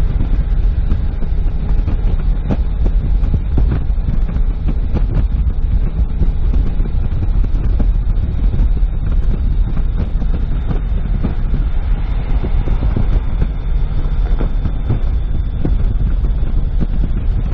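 A car driving along a road: a steady low rumble of road and engine noise, with scattered small clicks and a faint steady high tone.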